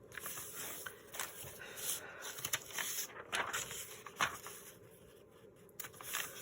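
Sheets of paper and book pages being handled and sorted into stacks: irregular rustling with a few sharper taps.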